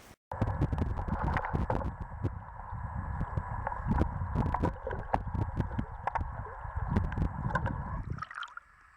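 River water gurgling and rushing through an open patch in the ice, with wind buffeting the microphone; it cuts off about eight seconds in.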